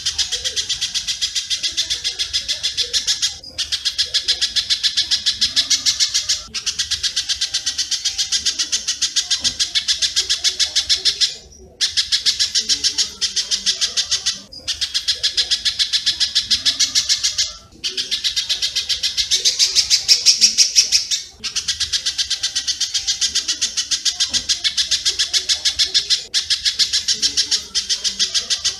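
Spiderhunter (pijantung) song with swiftlet (walet) twittering: a fast, dense run of sharp chirps, coming in phrases a few seconds long with brief breaks between them.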